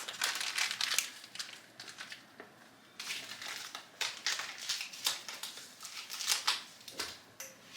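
Ground turmeric being scooped out with a spoon: a run of short, irregular scratchy scrapes and rustles.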